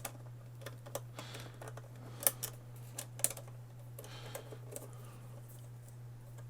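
Irregular light plastic clicks and taps, about a dozen, the loudest a little past two and three seconds in, as the Xbox One S console's plastic casing parts are handled and fitted together. A steady low hum runs underneath.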